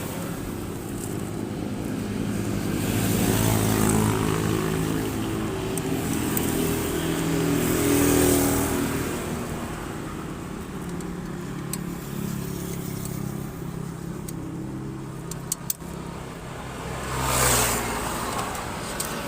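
A motorcycle engine running steadily while vehicles pass on the road, three passes swelling and fading. A few sharp clicks come about three-quarters of the way through.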